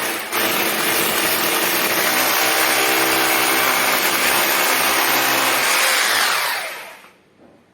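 Electric hammer drill running at full speed, drilling a hole into a wall, for about six seconds, then spinning down as the trigger is released.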